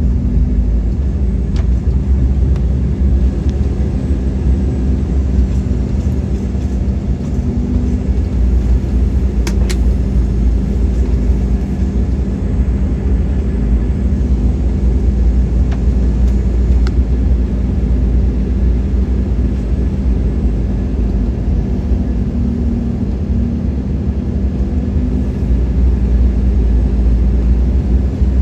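Cabin noise inside an Embraer E-Jet airliner: a steady low rumble of the twin turbofan engines and airframe, with a faint steady hum and a sharp click about ten seconds in.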